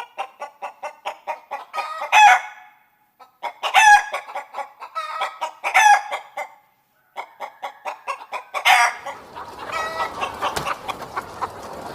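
Chicken clucking in quick runs of short clucks, each run capped by a louder squawk, four times over. From about ten seconds in, a noisier background with more clucking comes in.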